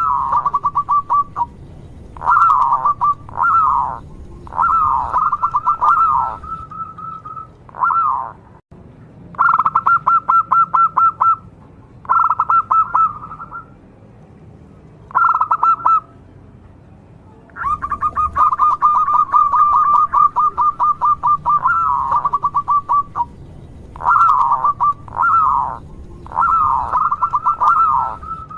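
Zebra dove (perkutut) singing: phrases of rapid staccato cooing notes, some of them long trilled runs, separated by short pauses.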